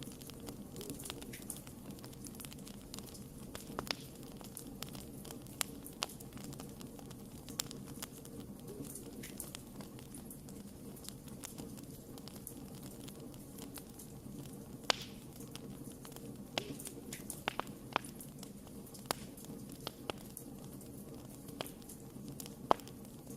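Wood fire crackling, with irregular sharp pops and snaps over a steady low rumble; a few pops stand out louder, the loudest near the end.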